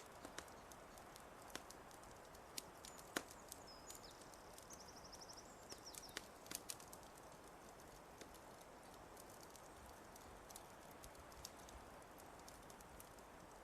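Wood fire crackling softly, with scattered sharp pops, the loudest about three seconds in. A short high bird trill sounds over it between about four and six seconds in.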